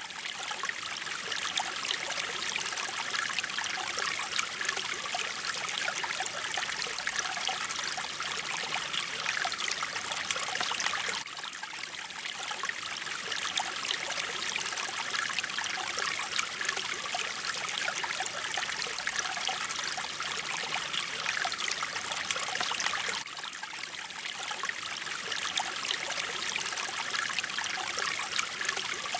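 Mountain stream flowing, a steady rush of many small splashes, with brief dips in loudness about every twelve seconds.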